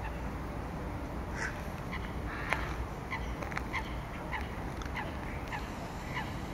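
A bird's short calls, repeated about twice a second from about a second and a half in, over a steady low background noise, with one sharp click about two and a half seconds in.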